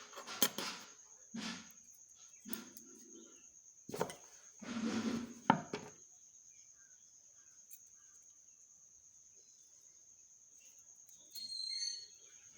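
Short clinks, knocks and scrapes of metal parts and tools being handled on a sewing machine, in a handful of brief bursts over the first six seconds, then quiet until a short scrape near the end. A faint steady high whine runs underneath.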